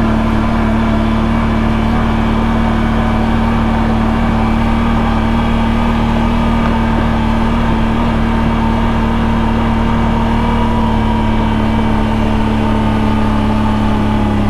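CFMoto CFORCE 1000 Overland ATV's V-twin engine running steadily under load as the quad climbs a trail, its pitch holding nearly level with only slight rises and falls.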